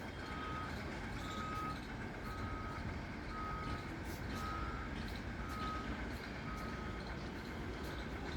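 Vehicle reversing alarm beeping, a single steady tone repeating about once a second, over low background noise.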